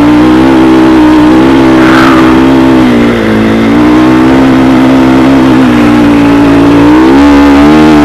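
Rally dirt bike's single-cylinder engine running steadily under way, picked up close by a helmet camera with wind noise. The engine note drops a little about three seconds in and climbs again near the end as the throttle changes.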